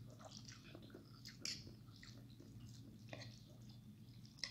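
Quiet close-up chewing of a mouthful of instant noodles, with a few short wet mouth smacks and clicks; the loudest comes about a second and a half in.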